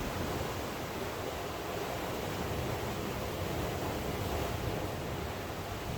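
Steady wash of rain and sea surf: an even hiss with no distinct drops or splashes standing out.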